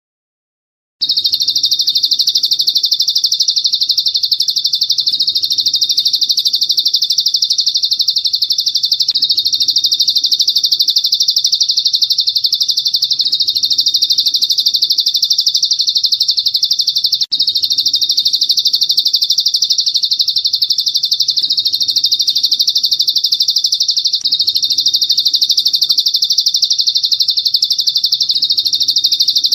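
Recorded songbird trill played as masteran: one continuous, very fast, high-pitched chirping trill that starts about a second in and runs on with hardly a break.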